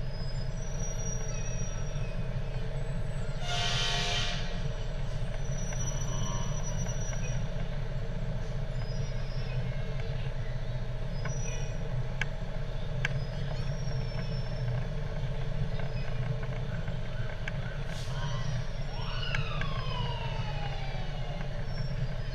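Fire truck diesel engine running with a steady low rumble, a short air brake hiss about four seconds in. Near the end a siren winds down in a falling wail.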